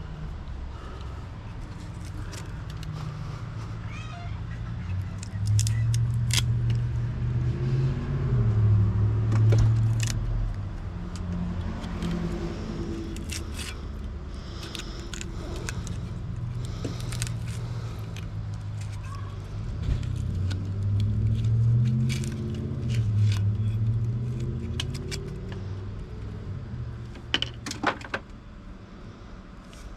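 Small metal scrap clinking and rattling as it is handled, over a low engine-like rumble that swells twice and fades.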